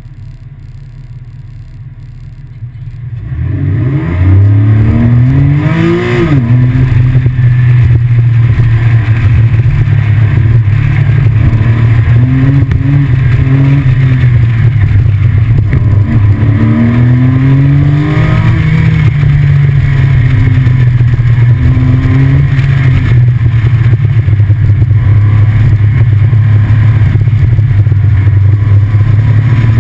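Porsche 911 Carrera 4S flat-six with PDK gearbox, idling and then launching hard about three seconds in. The revs climb steeply and drop sharply at an upshift, then the engine runs under heavy load, its pitch rising and falling repeatedly as the throttle comes on and off.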